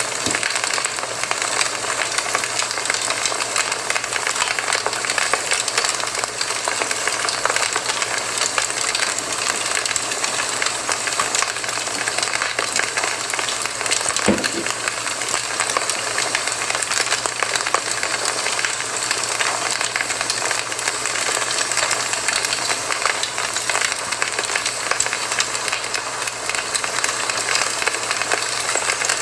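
Campfire burning with dense, steady crackling of fine snaps and hiss, and one brief low thud about halfway through.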